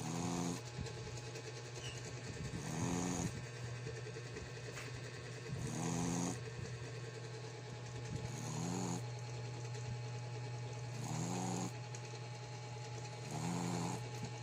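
A Shih Tzu–Pekingese cross dog snoring in its sleep. There are six short, pitched snores, one about every two and a half to three seconds.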